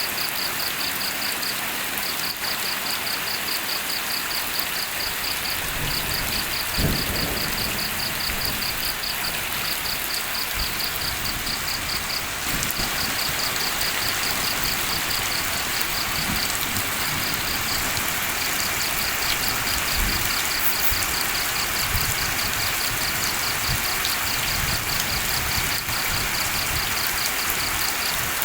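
Steady night rain falling, with an insect chirping high and fast in repeated trains of pulses over it. A soft low thump about seven seconds in.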